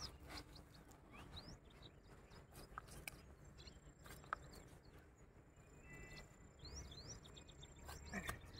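Near silence with faint, scattered short bird chirps and a few soft ticks.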